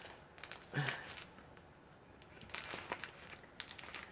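Faint rustling and crinkling with scattered small clicks as stuffing is pushed by hand into a sewn fabric bird lined with paper.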